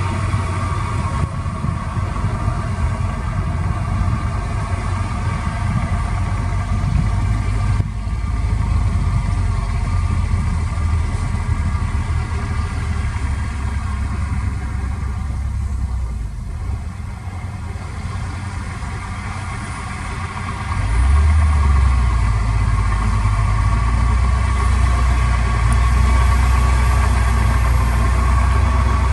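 Heavy construction machine's engine running steadily, dropping a little near the middle, then swelling louder and deeper about two-thirds of the way through as it takes on load.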